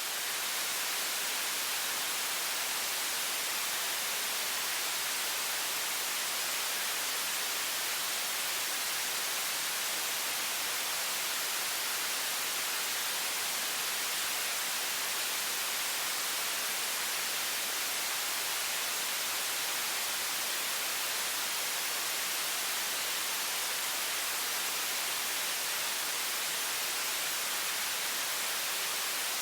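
High-pressure stream of water from a faucet, a steady, even hiss weighted toward the high end, played as white noise.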